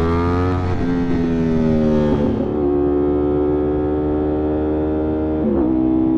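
Motorcycle engine running at steady revs while riding, its pitch stepping down a few times, about a second in, a little after two seconds and near the end.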